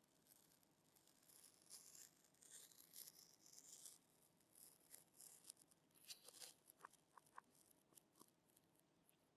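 Faint rustling, scraping and light clicking of objects being handled by hand, irregular and busiest in the middle, with a few short sharp ticks about two-thirds of the way through.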